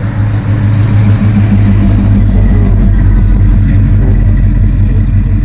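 A car engine running loud and close, a deep rumble that grows louder over the first couple of seconds, then holds steady.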